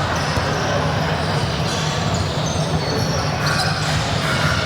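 Basketball being played in a gym: a steady bed of court and crowd noise with a ball bouncing and a few short squeaks near the end.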